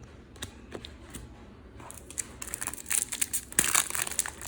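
A Topps Match Attax card packet being torn open, its wrapper crinkling: a few light clicks at first, then from about two and a half seconds in, dense crinkling and tearing that grows louder near the end.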